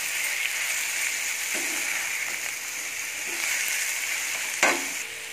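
Marinated chicken and onions sizzling in a non-stick frying pan while being stirred with a metal slotted spatula, with a steady hiss and a few light scrapes; a sharp knock of the spatula on the pan about four and a half seconds in.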